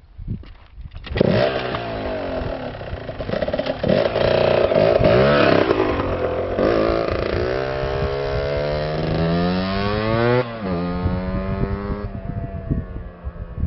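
Two-stroke engine coming in loud about a second in and revving up, its pitch climbing steadily, then dropping sharply about ten seconds in and running on at a lower pitch.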